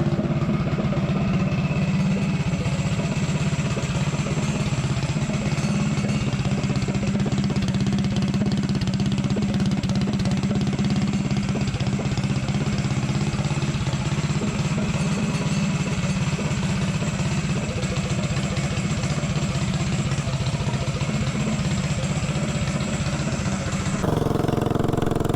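Tillotson 212 single-cylinder four-stroke engine of a mini bike running steadily at a near-constant speed. It is burning 20% nitro fuel through a Nibbi carburetor whose main jet has been drilled out to 180 to richen it.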